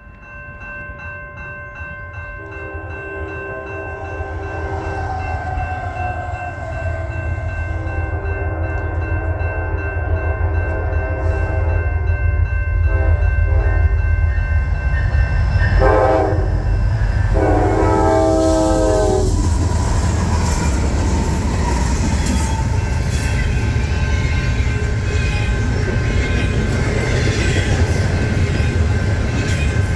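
Norfolk Southern diesel freight locomotives with a fast intermodal train approach a grade crossing, blowing the horn in a series of blasts that grow nearer and end in two loud, close blasts about 16 to 19 seconds in. The low engine rumble builds throughout, then the heavy rumble and rattle of double-stack container well cars rolling past carries on to the end. A crossing signal bell rings steadily in the background, clearest in the first half.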